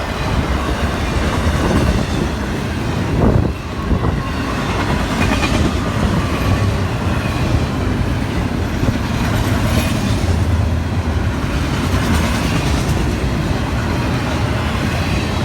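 Cars of a long intermodal freight train, loaded with containers and trailers on flat cars, rolling past at track speed: a steady rumble of wheels on rail, with a brief louder moment about three seconds in.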